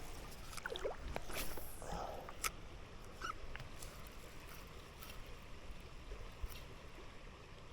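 Faint running river water, with scattered light clicks and a brief swish about a second and a half in.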